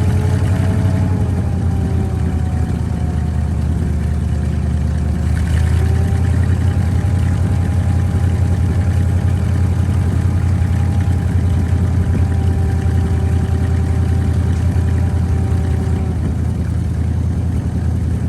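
1977 Ford grain truck's engine running steadily at idle, with a low drone that grows a little louder about five seconds in.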